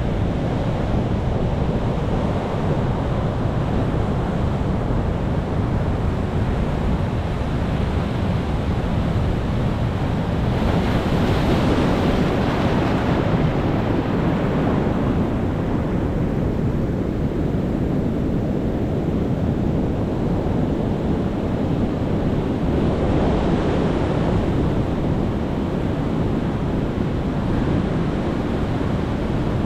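Ocean waves breaking and washing on a shore as a continuous rushing surf, with a larger wave swelling up about eleven seconds in and a smaller one near the end.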